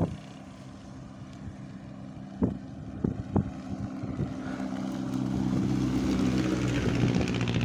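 A motor vehicle's engine running steadily, growing louder over the second half, with three short sharp clicks or knocks in the middle.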